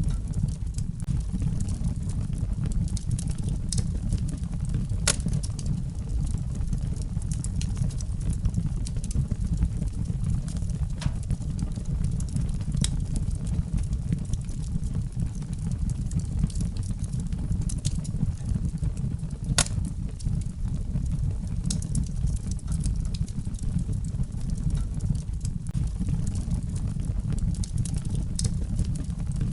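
Wood fire burning in a fireplace: a steady low rumble of flames with scattered sharp crackles and pops, a couple of them louder.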